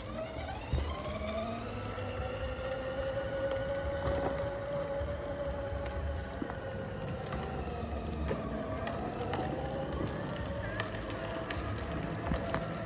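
Kids' electric ride-on motorbike driving along, its electric motor and gearbox whining. The whine rises in pitch as it speeds up in the first couple of seconds, then holds nearly steady with slight wavering, over a low rumble of the wheels.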